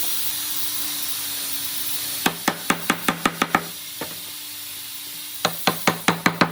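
Two quick runs of sharp knocks, about six a second, over a steady hiss: the first run a little over two seconds in, the second near the end.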